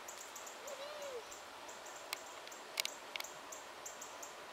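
Night insects chirping in a steady high rhythm, several chirps a second. About a second in comes one short call that rises and falls, and a few sharp clicks follow near the middle.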